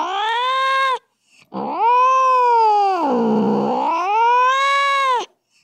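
Domestic cat yowling angrily: a drawn-out call that ends about a second in, then, after a short pause, one long yowl of nearly four seconds that wavers down and up in pitch before it cuts off.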